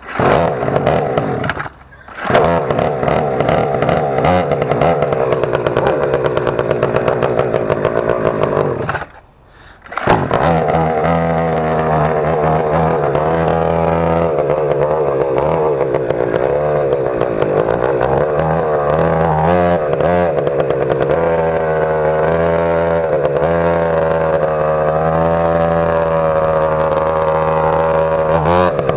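Motorized BMX bicycle engine starting from cold on choke and running through its newly welded exhaust pipe and small muffler. It cuts out briefly about two seconds in and again around nine seconds in, picks up each time, then runs steadily at a fast idle with its speed wavering slightly.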